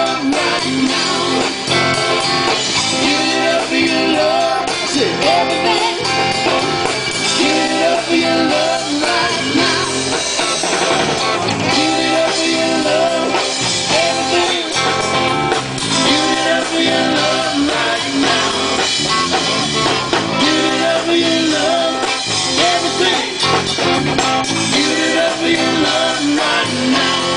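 Live blues-rock band playing an instrumental passage, with guitar and drum kit, in a repeating groove.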